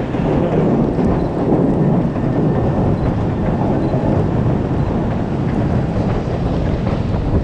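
Steady, loud low rumble of city noise.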